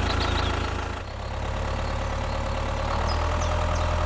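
Engine of a homemade mini tractor running steadily at idle, with an abrupt change in the sound about a second in.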